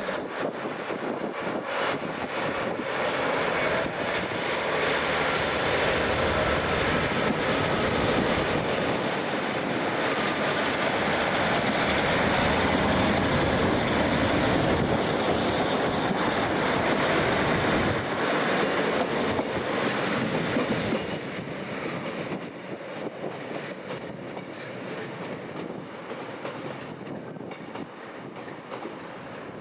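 A train running past, loud rumbling rail noise with a steady high-pitched whine above it, building over the first few seconds and dropping away after about twenty seconds.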